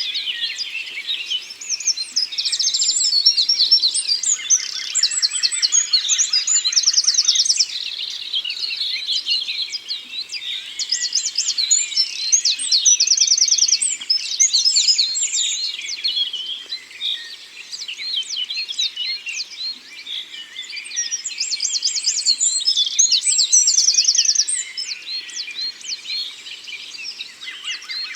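Several forest songbirds singing and calling over one another, with fast high trills recurring every few seconds and a lower buzzy trill joining in now and then.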